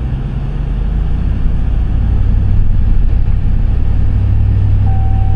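Pickup truck engine running steadily under load as it tows a stuck SUV on a rope, swelling about a second in. Near the end a steady electronic beep starts.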